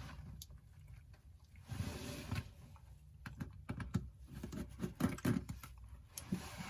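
Faint, scattered clicks and taps of a small precision screwdriver and tiny screws as screws are taken out of an iPhone 8 and set down on a flat surface.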